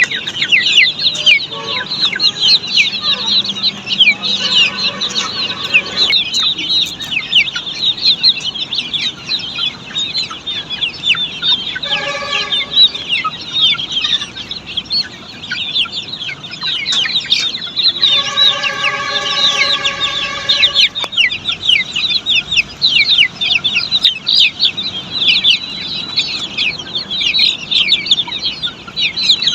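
Flock of Australorp chicks peeping: many high, falling chirps overlapping without a break. A few times a lower, steadier call with several tones sounds over them.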